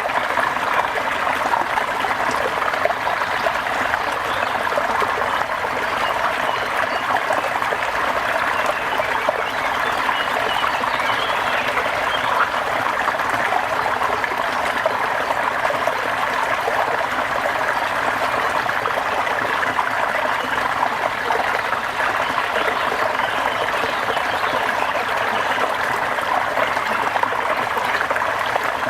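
Steady rain falling, an even rushing hiss that does not change.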